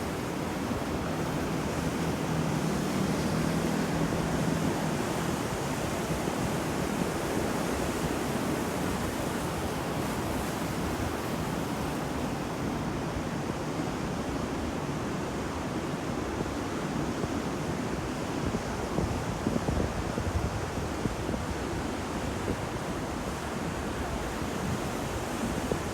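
Ocean surf: waves breaking and washing ashore in a steady, unbroken rush, with wind.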